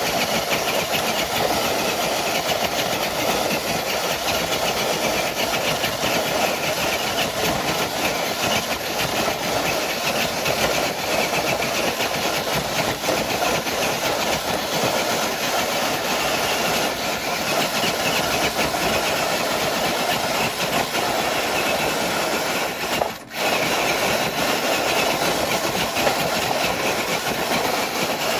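Electric motor and geared drivetrain of a scale RC crawler truck whirring steadily under load as it drags a brick-weighted sled. The sound cuts out for an instant about two-thirds of the way through.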